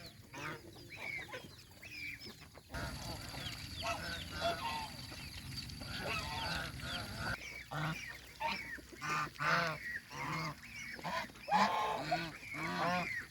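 Geese honking: many short, repeated calls overlapping one another, thicker toward the end. From about three to seven seconds in, a steady low rushing noise runs beneath the calls.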